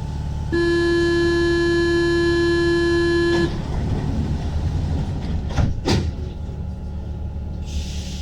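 Paris Métro door-closing warning buzzer, one steady three-second buzz that cuts off sharply, signalling that the doors are about to close. It is followed by clunks and two sharp knocks as the doors shut, over the low hum of the MP 05 train standing at the platform, and a hiss near the end.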